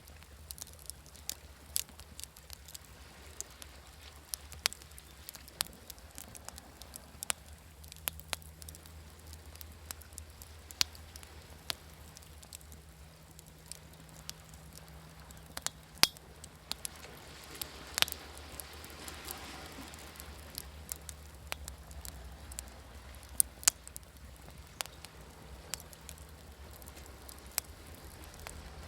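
Wood fire crackling, with irregular sharp pops and snaps over a steady low rumble. A soft hiss swells and fades about two-thirds of the way through.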